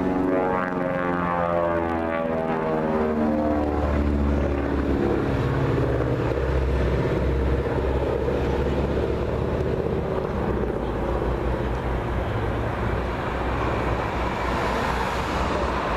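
Propeller airplane flying past, its engine tones falling in pitch over the first few seconds as it passes, then a steady engine drone.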